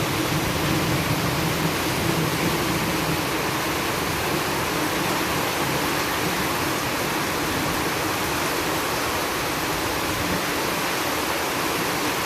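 Heavy rainstorm: a steady, dense rushing of pouring rain and running floodwater.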